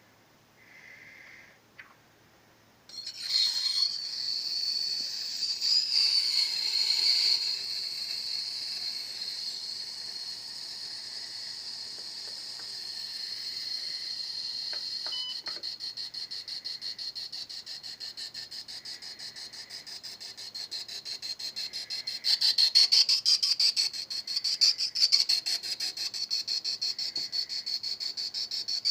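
ESMA 12.03 ultrasonic skin scrubber running: a high, steady whine that starts about three seconds in. About halfway through it turns into a fast, even pulsing buzz, with louder swells near the end.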